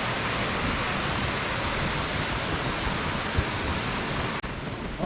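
Steady rushing of a mountain stream's water, a little quieter near the end.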